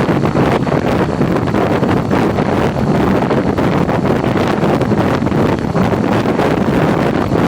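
Wind buffeting the microphone of a moving motorcycle, over steady engine and road noise while riding at a constant speed.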